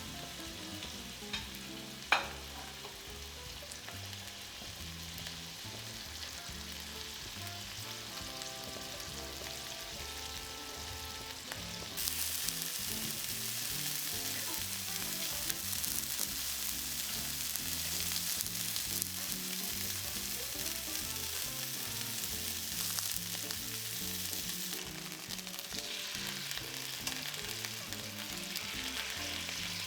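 Boneless chicken thighs frying in hot olive oil in a pan, with a steady sizzle that gets louder about twelve seconds in. A single light knock comes about two seconds in.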